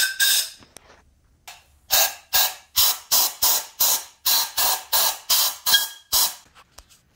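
Pressurised nozzle hissing in short repeated blasts. After a brief lull about a second in, the blasts come about two and a half times a second before stopping near the end.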